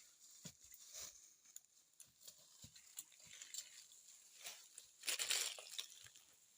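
Scattered rustling, crackling and light taps of something being handled, with a louder rustle about five seconds in.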